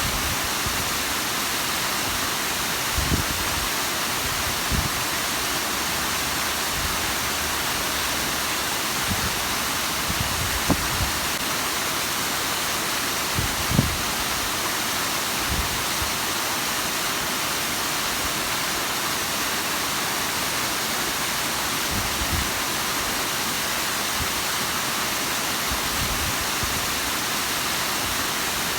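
Bigăr waterfall: water falling and splashing in a steady, dense rush, with a few brief low thumps.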